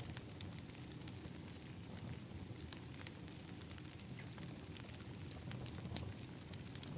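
Wood fire in an outdoor fire pit crackling, with scattered sharp pops and snaps, one louder pop about six seconds in, over a steady low rumble.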